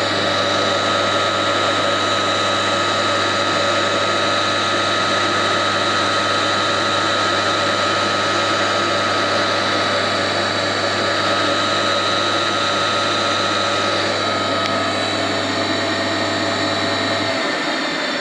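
Heavy old electric motor running steadily, a strong mains hum with a steady whine above it. Near the end it is switched off: the hum cuts out and the whine starts to fade as it runs down.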